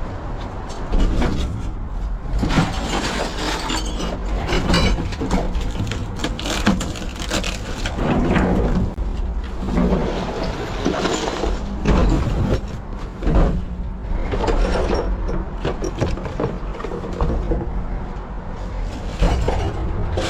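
Rummaging through trash in a dumpster: bags and items rustling, crinkling and knocking irregularly, over a steady low rumble.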